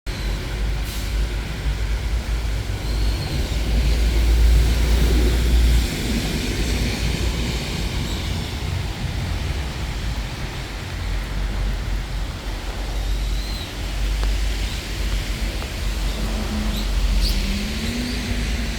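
Steady rain falling over an even hiss, with a low rumble underneath that is strongest about four to six seconds in. A few brief bird chirps come through, about three seconds in and again past the middle.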